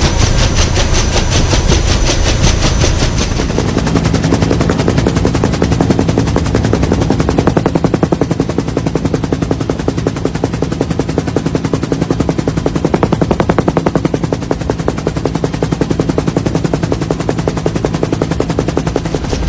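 Rotor blades chopping in a rapid, even beat over a steady motor hum, the sound of an aircraft's rotors in flight.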